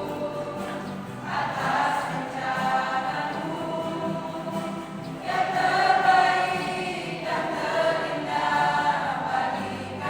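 Church choir singing a praise song, in long phrases that swell and fall.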